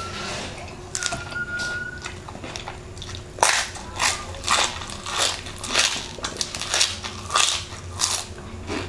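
A thin whistling tone from a water faucet, heard twice in the first two seconds. Then loud crisp crunching as deep-fried crispy chicken skin is bitten and chewed, about two crunches a second.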